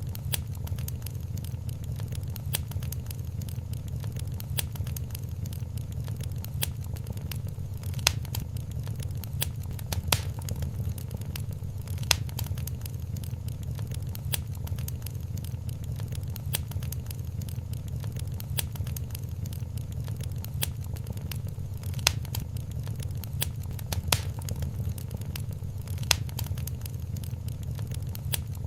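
Wood fire in a fireplace crackling, with many small snaps over a steady low rumble and a sharper pop every couple of seconds.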